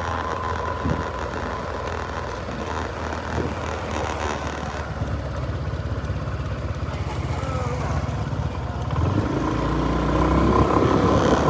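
An engine running steadily, its note changing about nine seconds in and getting louder toward the end.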